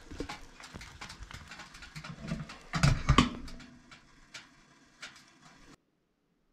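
Dog noises close to the microphone, most likely a chocolate Labrador, with a louder burst about three seconds in. The sound cuts off suddenly near the end.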